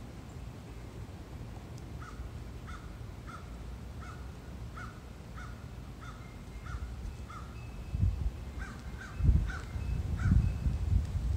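A bird calling over and over, about one call every two-thirds of a second, starting about two seconds in, then a quicker run of four calls near the end. Bursts of low rumble come in with the later calls and are the loudest sound.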